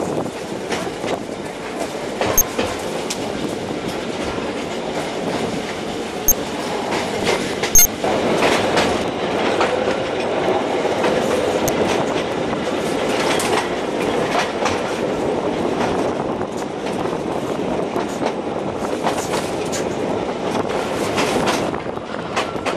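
750 mm narrow gauge train running along the track, its wheels rumbling and clacking steadily, with a few sharp clicks in the first half.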